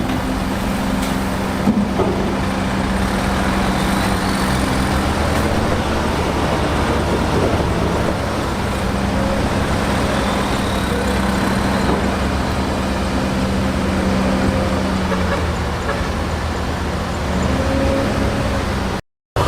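Heavy diesel earthmoving machinery running steadily, with a low engine hum held throughout. The sound cuts out abruptly for a moment near the end.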